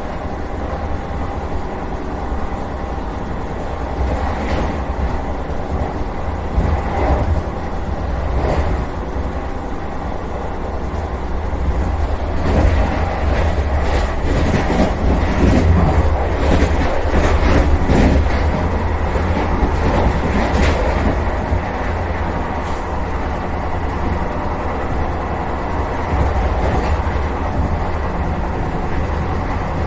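Vande Bharat Express electric train running, heard from inside the driver's cab: a steady low rumble with wheels clicking over rail joints, the clicks coming thickest around the middle.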